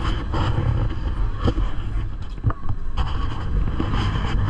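Gornergrat rack railway train running: a steady low rumble with a few sharp knocks.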